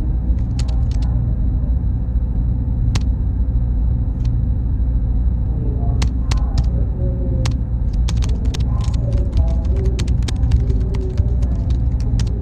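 Computer server room ambience: a steady low hum of machine fans with a faint high whine, and scattered sharp clicks that come thick and fast in the second half.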